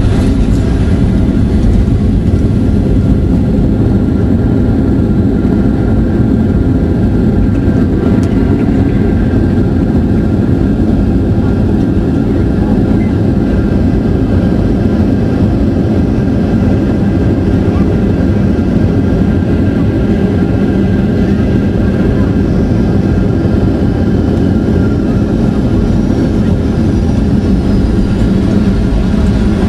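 Steady, loud rumble of a Boeing 737-800's CFM56-7B jet engines and rushing air heard inside the cabin, with a few faint steady engine tones above it.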